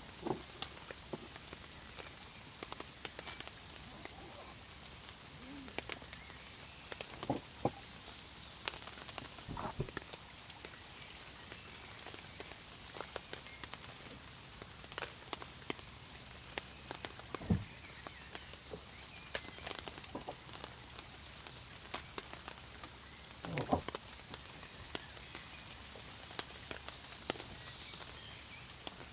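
Steady rain, with individual drops tapping on a surface throughout and a few louder, deeper thuds spaced several seconds apart.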